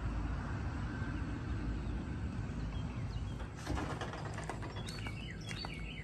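Birds chirping in short rising and falling calls in the second half, over a steady low rumble. A brief scuffling noise comes about three and a half seconds in.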